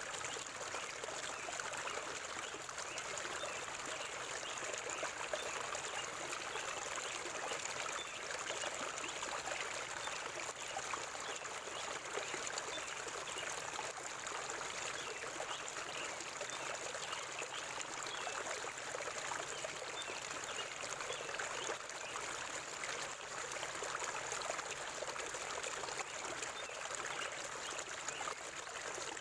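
River water flowing steadily, a continuous trickling rush of stream water.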